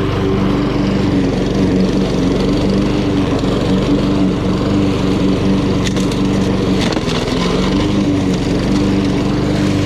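Honda GCV170 single-cylinder engine of a walk-behind lawn mower running steadily while cutting grass, with two brief sharp cracks about six and seven seconds in.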